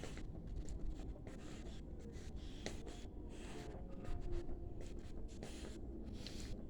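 Irregular scratching and rubbing noises over a low steady rumble, like a phone microphone being handled or brushing against clothing.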